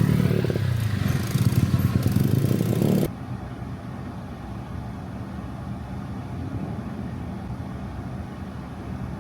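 Motor vehicle running with engine hum and road noise, louder for about the first three seconds, then cutting abruptly to a quieter steady drone.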